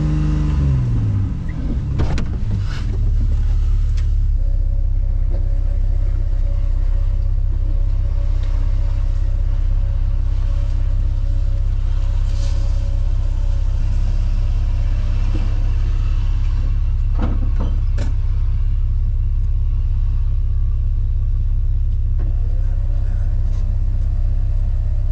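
Vehicle engine coming down from a rev in the first second, then idling with a steady low rumble. A few short knocks come through, near the start and again about two-thirds of the way in.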